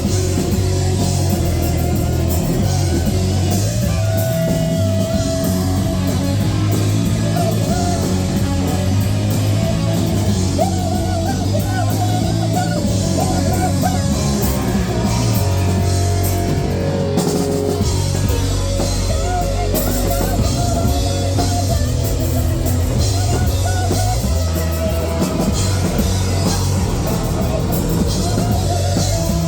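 A rock band playing live and loud: distorted electric guitar and drum kit with a voice singing or shouting over it.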